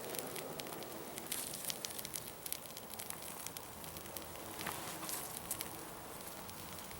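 Small wood campfire crackling, with many quick, irregular pops and snaps over a soft hiss.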